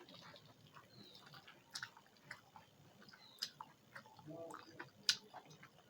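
Close-miked chewing of a mouthful of food, with soft wet mouth sounds and three sharp lip smacks about a second and a half apart, the last the loudest.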